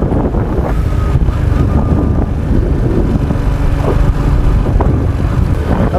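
Honda XRM 125's single-cylinder four-stroke engine running steadily under way, mixed with a constant low rumble of wind and road noise.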